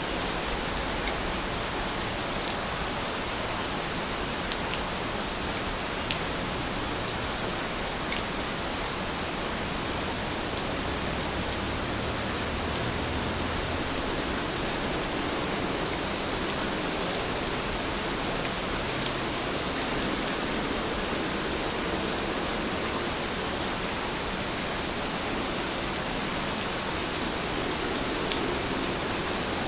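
Steady rain falling, an even hiss with a few distinct drop ticks here and there.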